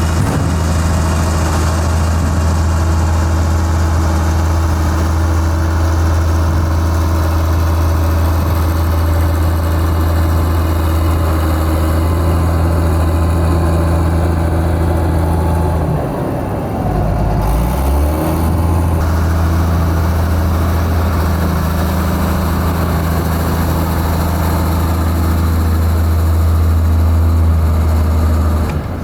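Heavy diesel engine of construction machinery running steadily with a deep, even note, briefly dipping and shifting in pitch a little past halfway.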